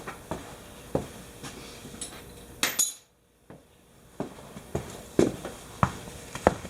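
Scattered metallic clinks and knocks from hand tools being handled, with a brief silence about three seconds in.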